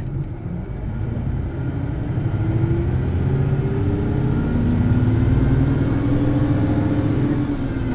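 Hino Blue Ribbon City Hybrid bus accelerating: its diesel engine revs up, getting louder over the first few seconds, then runs at high revs. A faint high whine rises and falls over the middle, and the engine note eases near the end.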